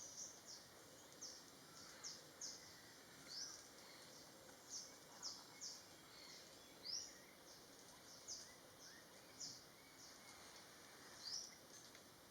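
Faint wild bird chirps: short, high notes repeating irregularly, about one or two a second, over a quiet forest background.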